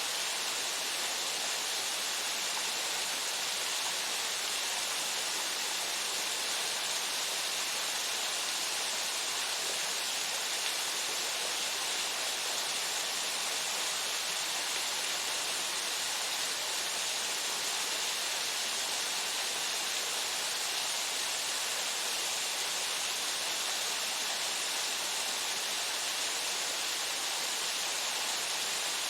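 Fudo Falls' Odaki waterfall pouring steadily: an even, unbroken rush of falling water with a bright hiss.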